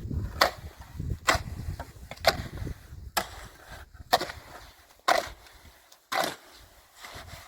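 A tool striking wood in steady, evenly spaced blows, about one a second, each a sharp knock.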